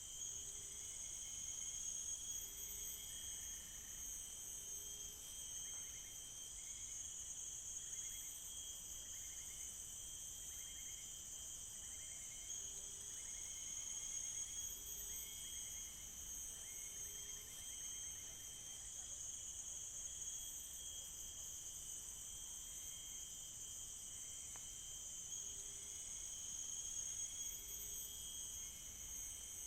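Tropical forest insect chorus: a steady, high-pitched drone of crickets or cicadas. Short chirps from another animal repeat every second or two.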